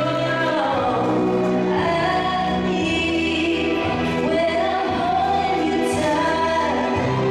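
Music with a choir singing long held notes over a steady low accompaniment.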